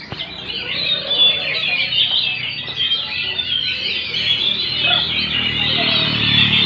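Many caged songbirds singing at once: rapid, overlapping chirps and trills forming a dense, unbroken chorus, with a low murmur of voices coming up in the second half.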